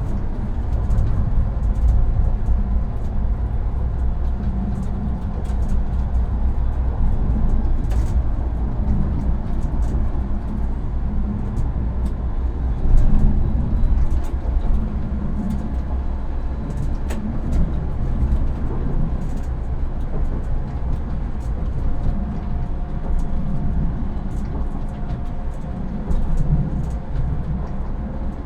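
Tram running along its line, heard from the driver's cab: a steady low rumble of wheels and running gear, with occasional clicks and a faint whine that comes in near the end.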